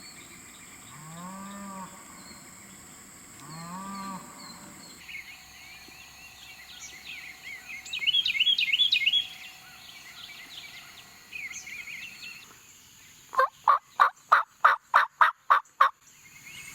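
Wild turkeys calling: a loud rapid gobble about halfway through, then a run of about ten evenly spaced yelps, about four a second, near the end. A few softer single calls come in the first seconds.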